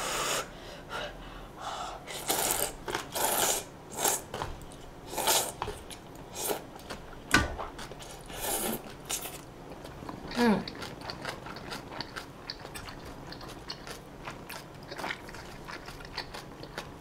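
Close-miked eating sounds: chewing and biting food in irregular short bursts, most of them in the first nine seconds.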